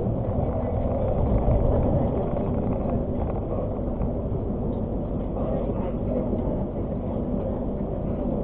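Argo Parahyangan passenger train running along the track: a steady low rumble and hum of the moving train.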